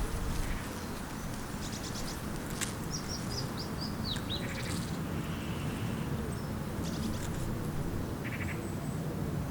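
Small birds chirping and twittering in short high calls and quick trills, including a run of rapid falling chirps a few seconds in, over a steady low background rumble.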